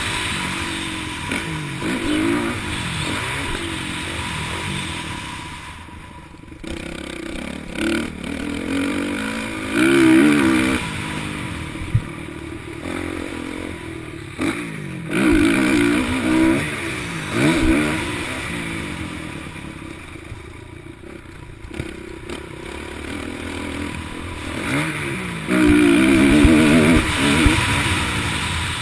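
Motocross bikes on a dirt track, engines revving up and dropping off as riders pass, several passes swelling louder and fading; the loudest come in the middle and near the end.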